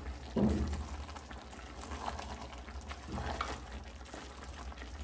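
Mutton and onions frying in an aluminium pressure cooker pan while a wooden spatula stirs and scrapes through the masala, with a few louder scrapes along the way.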